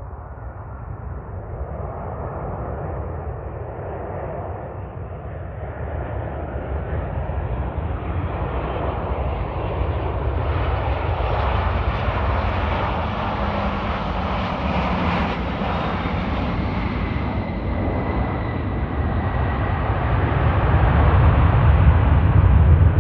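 Boeing 737-800 jet airliner on approach to land, its CFM56 engines growing steadily louder as it nears. A faint high whine sits over the roar through the middle, and a deepening rumble builds toward the end.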